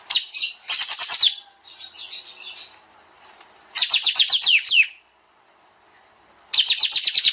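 Kapas tembak songbird singing its rapid-fire 'nembak' song: three bursts of quick, sharp, downward-sweeping high notes, with softer chattering between the first two.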